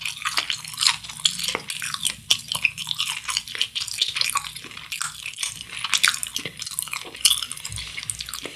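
Close-miked chewing of a mouthful of fried cheese stick: a dense run of quick wet mouth clicks and soft crunches.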